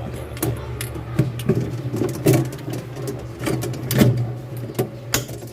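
A dozen or so irregular clicks and knocks over a steady low hum.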